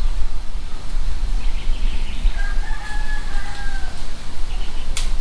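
A rooster crowing once, a single long call about two seconds in, over a steady low rumble. A sharp click near the end.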